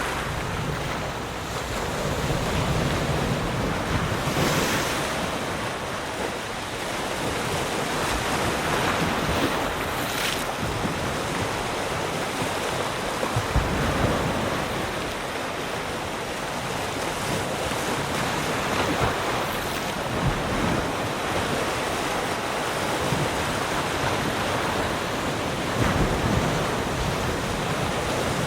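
Sea surf: waves breaking and washing on the shore in a continuous rush that swells and eases, with wind buffeting the microphone in occasional low thumps.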